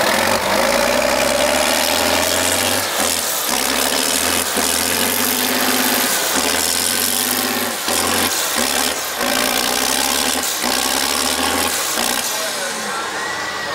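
Diesel tractor engine running loud, its low note breaking off and picking up again every second or so.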